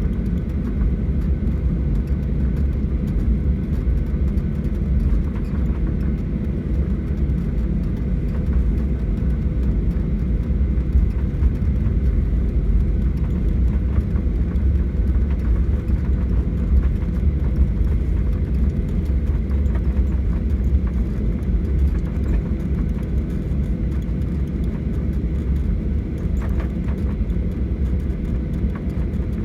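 Steady cabin noise of a Boeing 737-800: a deep, even rumble of its CFM56 jet engines and the airflow, with a faint steady hum on top, heard inside the passenger cabin.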